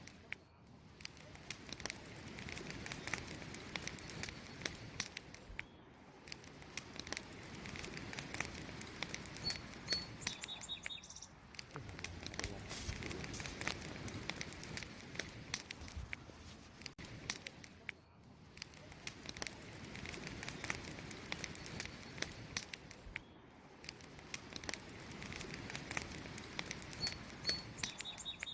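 Wood campfire crackling with many small pops and snaps, over a steady hiss. A bird chirps briefly about ten seconds in and again near the end.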